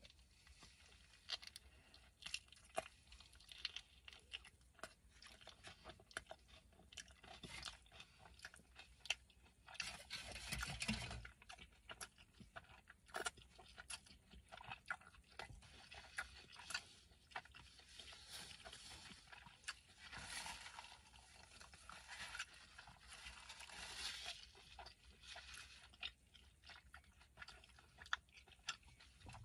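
Close-up mouth sounds of a person eating a burrito: faint chewing with small wet clicks and smacks, a little louder around ten seconds in and again around twenty seconds in.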